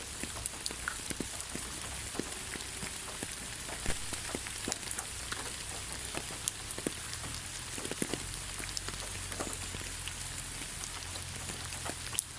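Steady rain falling in a forest: an even hiss with many separate drops landing close by as sharp ticks.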